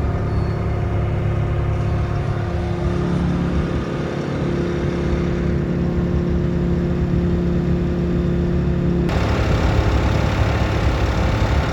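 Bobcat T66 compact track loader's diesel engine running steadily, with a steady hum over the engine drone. The sound changes abruptly about nine seconds in.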